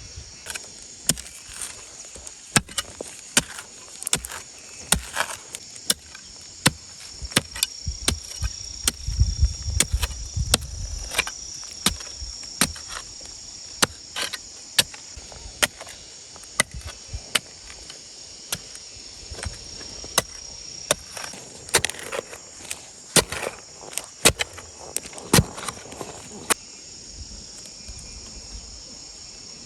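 Irregular sharp knocks and taps, loudest in bursts around 4–11 s and 22–26 s, over a steady high chirring of insects.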